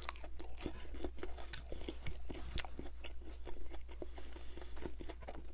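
A person chewing a crispy McDonald's Chicken McNugget: a string of irregular small crunches and mouth clicks.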